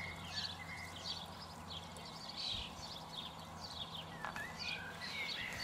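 Small birds chirping and twittering in many short, quick calls, over a faint low steady hum.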